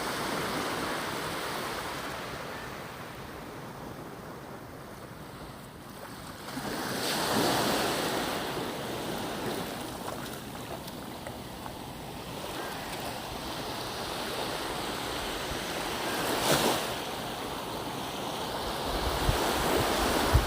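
Pacific Ocean surf washing in and receding, swelling to a louder surge about seven seconds in and again briefly near the end. Wind buffets the microphone with a low rumble toward the end.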